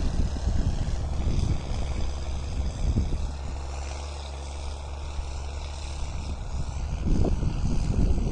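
New Holland TS6.125 tractor's diesel engine running under load while pushing soil, a steady hum with uneven low rumbling that grows louder about seven seconds in.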